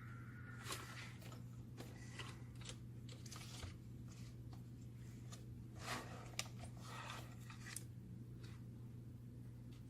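Faint scattered clicks and short scrapes of small parts being handled, a sharper click about six seconds in, over a steady low hum.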